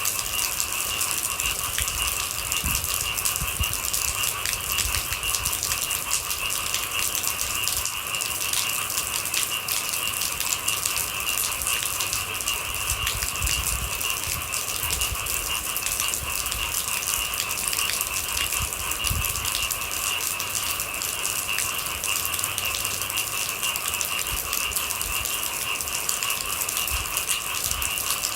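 Steady rain with a dense patter of drops, over a continuous high-pitched chorus of night animals.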